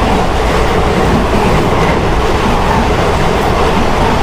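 Two trains at speed: an Indian express running with a suburban electric local train passing close on the next track, a loud, steady rumble and clatter of wheels on rails.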